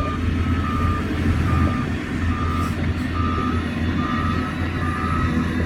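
Reversing alarm on heavy earthmoving equipment beeping steadily, about one beep a second, over the low rumble of a diesel engine.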